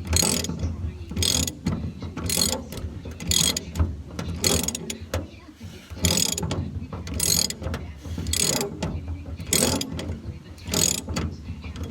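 Hand ratchet wrench with a T55 star bit clicking on its back-strokes, about one burst of clicks a second, while a truck bed bolt is worked loose. A steady low hum runs underneath.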